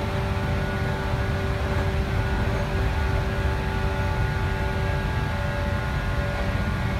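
Inside a 415 series electric multiple unit running between stations: a steady low rumble of wheels on rail and running gear, with a steady whine from the traction motors and gearing.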